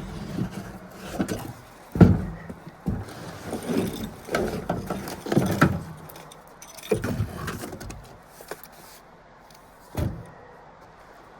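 Irregular clunks, knocks and rustles of gear and doors being handled at a pickup truck, with sharp loud thumps about two seconds in and again near the end.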